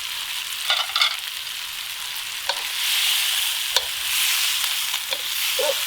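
Food sizzling as it fries in a pot over a campfire while being stirred, with a few sharp clicks of the utensil against the pot. The sizzle grows louder about three seconds in, and a few short scraping squeaks come near the end.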